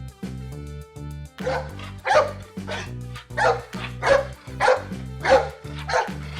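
A dog barking repeatedly, short sharp barks coming about every half second from about a second and a half in, over background music with steady low notes.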